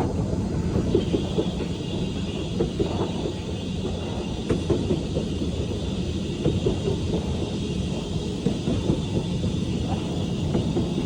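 Train hauled by BR Standard Class 4 steam tank locomotive 80151 running along the line: a steady rumble with irregular knocks from the wheels on the track, and a faint high hiss joining about a second in.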